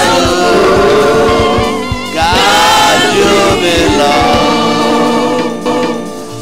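Gospel music: a slow, drawn-out sung melody over instrumental backing, in two long phrases with a brief break about two seconds in.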